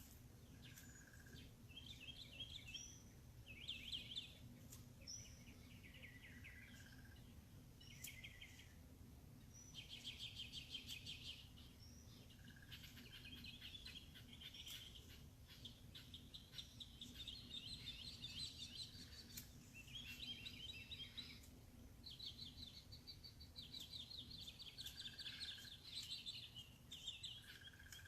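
Several songbirds singing and calling at once, faintly, in overlapping chattering and trilled phrases, with a short higher note repeated every few seconds. A steady low hum runs underneath.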